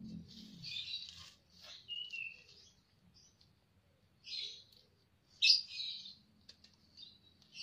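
Birds chirping in short, separate bursts of calls, the loudest about five and a half seconds in.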